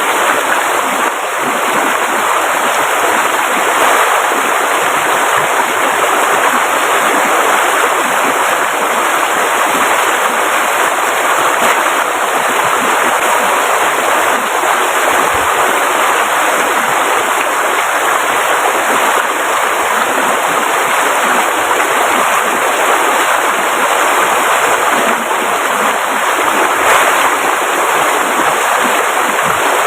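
Steady, loud rushing of flowing water, an even noise that does not let up.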